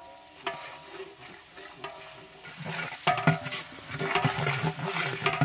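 Onions and green chilies frying in hot oil in a large metal cooking pot, stirred with a long metal ladle that knocks and rings against the pot's side. The sizzling grows louder from about halfway through.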